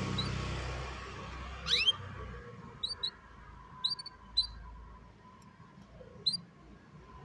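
Canary giving short, high chirps: one quick upward-sweeping call about two seconds in, the loudest, then scattered single and paired chirps spaced a second or so apart.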